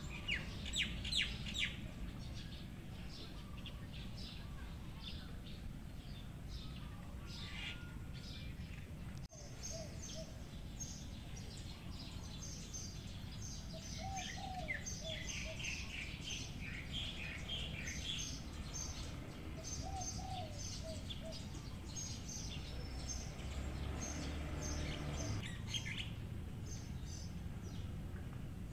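Several small birds chirping and twittering in quick repeated calls, over a steady low rumble.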